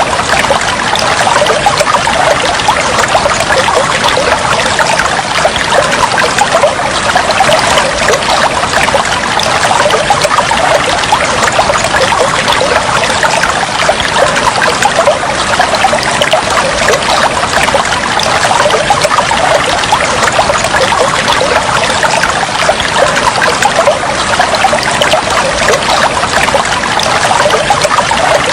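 Flowing water trickling steadily, a dense, even patter of small splashes that never lets up.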